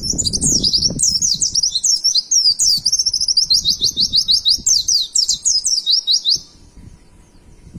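White-eye (pleci) singing a fast, continuous twittering song of rapid high, sliding chirps, some in quick even runs; the song stops about six seconds in, leaving a faint low rumble underneath.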